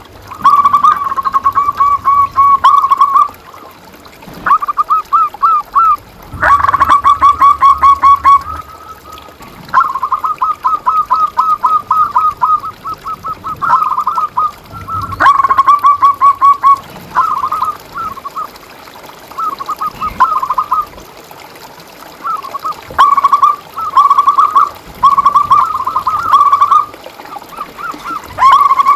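Zebra doves (perkutut) cooing in repeated bursts of quick, staccato notes at a steady pitch, with short gaps between phrases. A few sharp clicks sound along the way.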